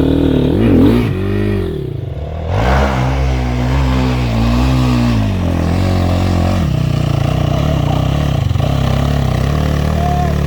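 Dirt bike engine revving hard in quick rises and falls, dropping off briefly about two seconds in, then picking up again and running at a fairly steady high rev.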